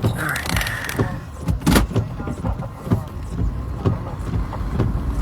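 Inside a car: a steady low rumble with scattered clicks and knocks, and a brief high tone about half a second in.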